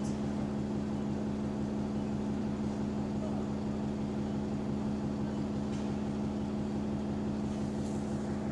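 Bus engine running steadily at an even pitch, heard from on board a bus that has a small exhaust leak.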